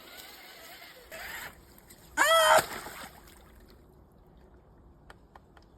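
A brief wordless vocal exclamation with a bending pitch about two seconds in, over faint splashing and hiss of water.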